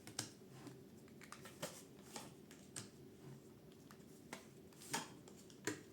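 Tarot cards being handled and shuffled: faint, scattered card snaps and papery rustles, about one every half-second to second.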